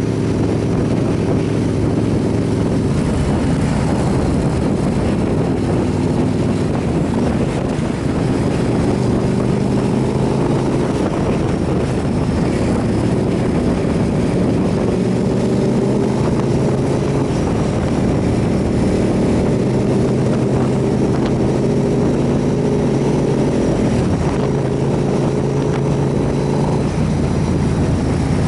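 Motorcycle engine running under way, its pitch stepping up and down a few times as throttle and speed change, over a steady rush of road and wind noise.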